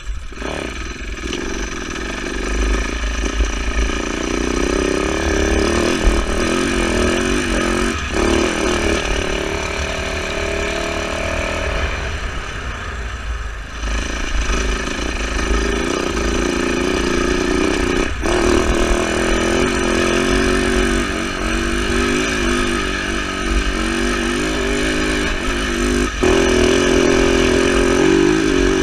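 Husaberg FE450 single-cylinder four-stroke enduro motorcycle engine running under throttle while riding off-road, the revs rising and falling with the shifts. The engine note drops away for a couple of seconds about twelve seconds in, then picks up again, with a low rumble of wind on the microphone underneath.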